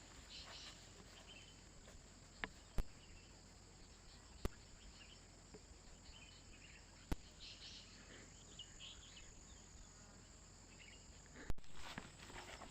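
Forest ambience: insects drone steadily at a high pitch, with scattered short chirps. Three sharp clicks stand out, and a louder rustling burst comes near the end.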